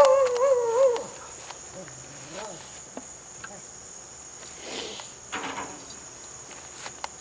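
Crickets trilling steadily in the background, opened by a brief wavering voice-like hum in the first second, with a few faint rustles later.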